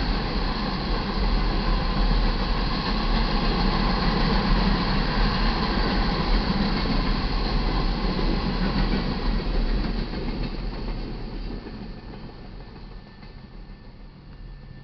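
Iron ore cars of a freight train rolling past, steel wheels running on the rails in a steady rumble. The noise fades away from about ten seconds in as the end of the train goes by.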